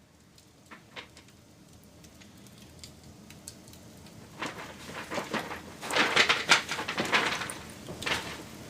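Wood fire crackling: a few sharp pops at first over a growing hiss, then a dense run of crackling and popping from about halfway that eases near the end.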